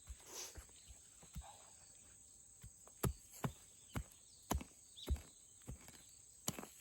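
Footsteps on forest ground: a run of thudding steps, about two a second, starting about three seconds in after a few fainter rustles.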